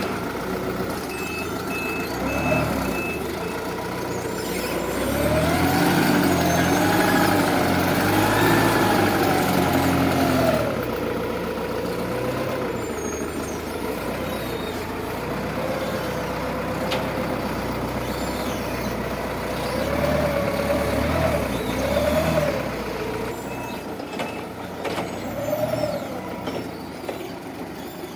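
Counterbalance forklift engine running and revving up and down in several swells as it works, with short runs of reversing-alarm beeps near the start and again near the end.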